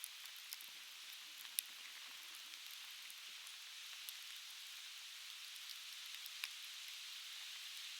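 Softwood campfire burning, with scattered sharp crackles and pops over a steady quiet hiss; the loudest pop comes about one and a half seconds in.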